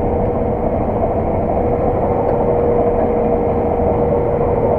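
Claas Lexion 600 TerraTrac combine harvester running steadily while combining: an even drone with a constant whine held at one pitch.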